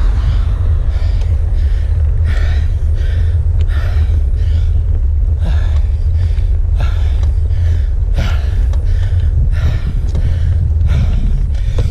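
A cyclist breathing hard and fast on a steep climb, a heavy gasp more than once a second, the sound of labouring under effort, over a steady rumble of wind on the microphone.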